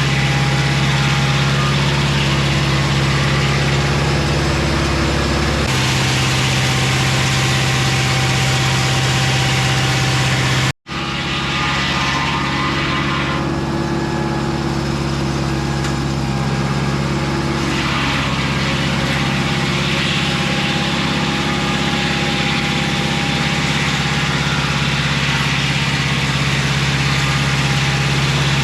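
Mobile Dimension circular-blade sawmill running steadily, its engine droning under the blade noise. The sound breaks off for an instant about eleven seconds in, then carries on.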